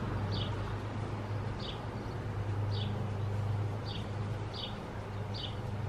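A bird repeating a short, high chirp about once a second, over a steady low hum.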